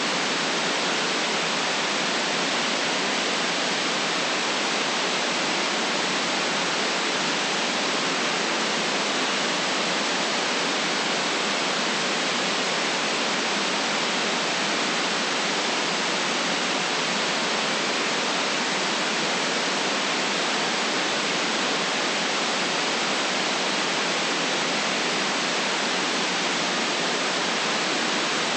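Steady, unchanging white noise: an even hiss with no deep bass.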